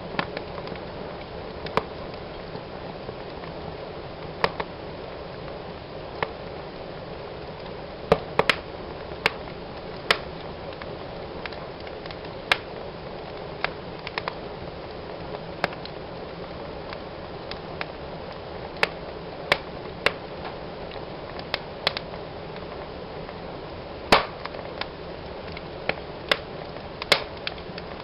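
Wood fire burning in a fireplace: a steady soft hiss of the flames with irregular crackles and sharp pops from the burning logs.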